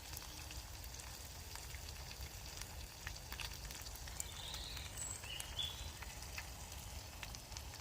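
Fatty venison burger frying in a pan over a campfire: a steady sizzle with scattered small crackles and spits.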